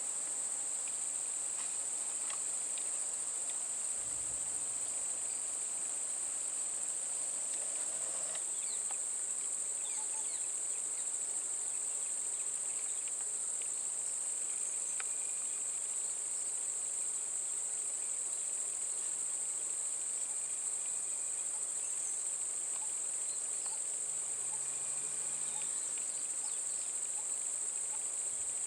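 A steady, high-pitched insect chorus: one unbroken shrill drone that holds the same level throughout.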